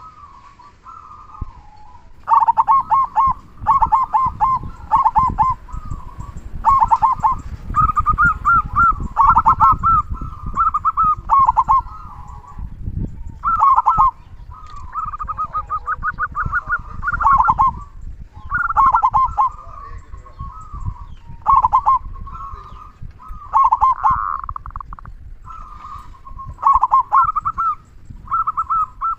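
Zebra dove (perkutut) cooing again and again, with the big 'kung' voice prized in song doves. Each phrase is a run of quick trilled notes, and the phrases come every second or two. A low rumbling noise runs underneath for much of the time.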